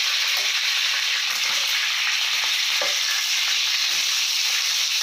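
Chicken pieces frying in hot oil in a nonstick frying pan: a steady sizzle with a few small pops of spattering oil.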